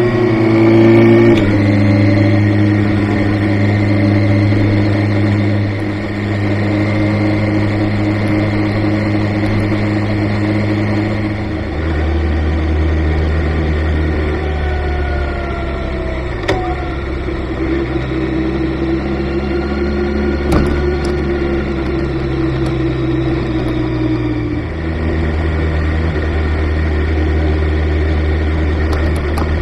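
Kawasaki Ninja ZX-6R's inline-four engine running steadily, its pitch stepping down and up a few times.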